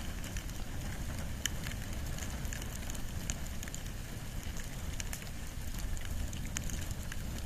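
Wood and bamboo burning in an open fire: a steady low rumble of flames with frequent sharp crackles and pops.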